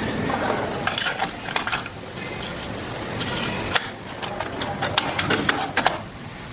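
Metal clicks and clinks of engine parts and hand tools being handled during motorcycle engine assembly, over a steady low workshop hum. The clicks come in irregular clusters, with one brief high metallic ring about two seconds in.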